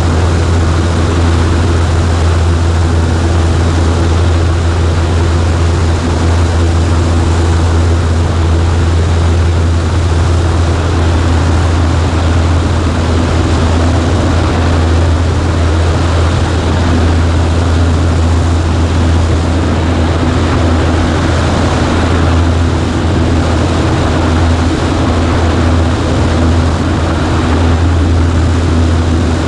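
Cessna 140A's four-cylinder piston engine and propeller running steadily at a constant power setting: a strong, even low hum under a continuous rush of noise.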